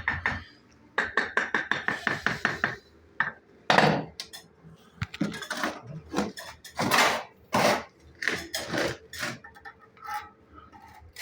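Bricklaying tools on brick: a quick run of ringing metallic taps, about eight a second, as bricks are tapped down to level them in the top course of a brick stove. After it come scattered scrapes and knocks of mortar work.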